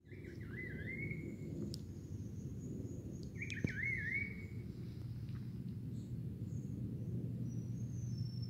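A forest bird singing two short, wavering, warbling phrases about three seconds apart, over a steady low rumble. A thin high whistle runs through the middle, and a high note slides downward near the end.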